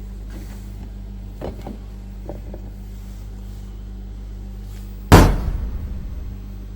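A few light clicks and taps, then a loud knock about five seconds in that rattles off over about a second, like a hard object set down or dropped, over a steady low hum.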